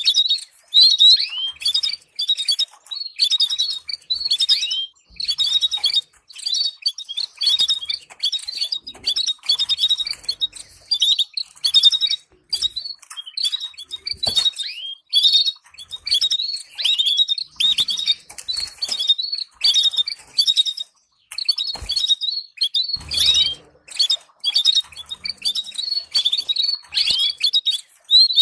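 Canary singing a long run of rapid chirps and trills in quick phrases separated by short gaps, with a brief pause about two-thirds of the way through. This is stimulating song used to train other canaries to sing.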